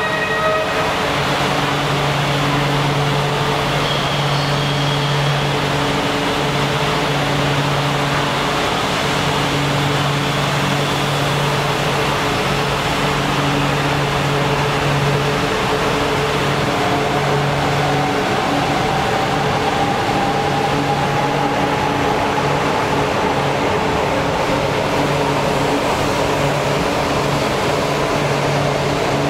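Joetsu Shinkansen train running: a steady rushing noise with a low hum, and from about halfway through a whine that slowly rises in pitch.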